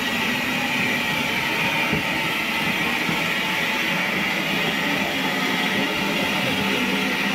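Train running steadily on the rails: a continuous, even rumbling noise with no distinct beats.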